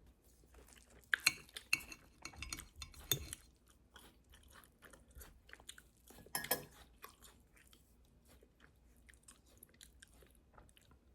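A person biting and chewing crunchy food: a run of crisp crunches between one and three seconds in, a louder crunch about six seconds in, then faint scattered chewing clicks.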